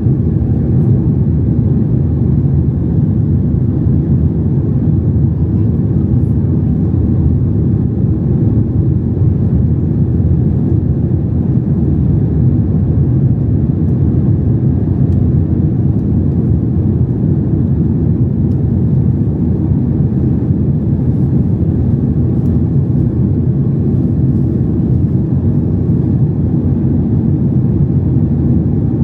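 Boeing 737 MAX 8 cabin noise heard from a window seat: a steady, loud, low rumble that neither rises nor falls.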